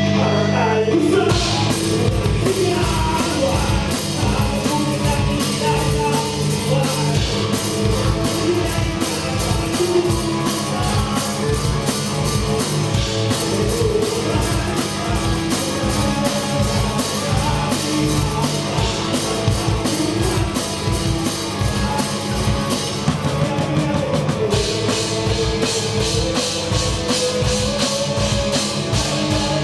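A live rock band playing a song: drum kit keeping a steady beat under guitar, bass and singing, with the drums coming in about a second in.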